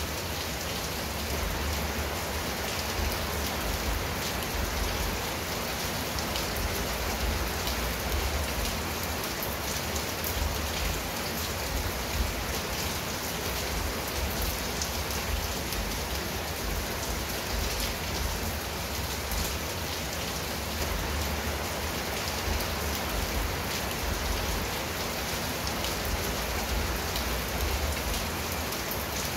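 Steady rain falling on roof tiles and leaves: a dense, even patter of drops that keeps up without a break.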